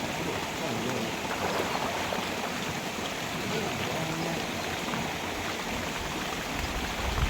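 Steady rush of flowing river water, with a low rumble building near the end.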